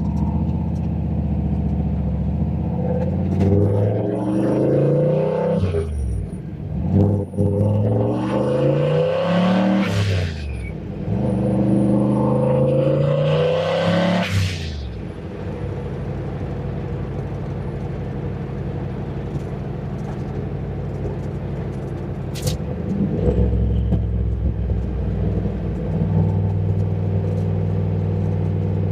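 Turbocharged 351 Windsor V8 of a Fox-body Mustang revved three times, each rev climbing over a few seconds and falling back, then running steadily. The running note steps up about two-thirds of the way through.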